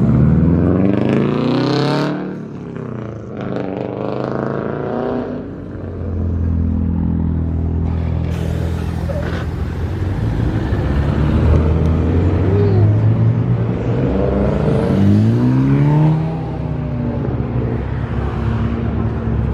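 Car engines accelerating hard, their pitch sweeping up several times, with a steady engine drone between the pulls.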